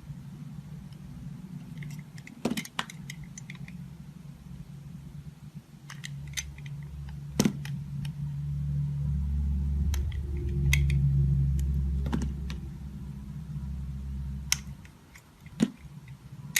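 Knife cutting dry soap: scattered crisp crunches and snaps, a few at a time, over a steady low hum that swells in the middle.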